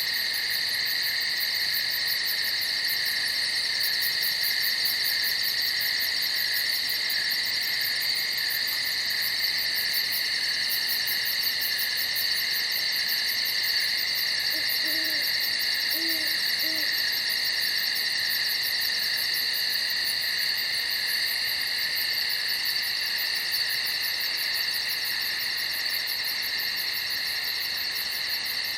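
A steady night chorus of crickets chirping, with a continuous high pulsing trill over it. Three faint low hooting notes come about halfway through.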